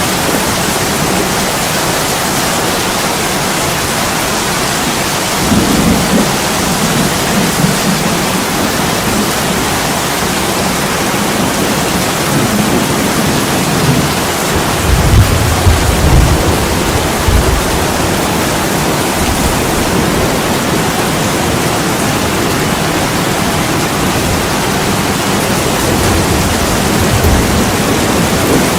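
Steady heavy rain pouring on a window pane, with low rumbles of thunder rolling through twice. The louder roll comes about halfway through, and a faint one follows near the end.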